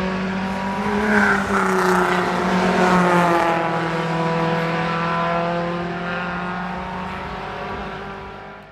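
Classic racing car engine running hard on the circuit. Its note drops slightly as it passes, then fades away, and the sound cuts off suddenly at the end.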